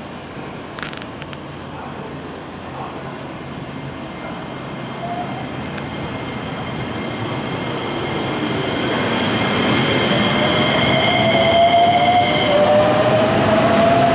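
Electric commuter train growing steadily louder as it comes through the station, with a motor whine that slowly rises in pitch over the last few seconds and a steady high squeal held for several seconds.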